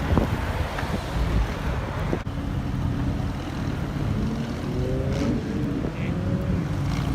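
Car engine rumbling, then from about three seconds in an engine note climbing steadily in pitch as a car accelerates.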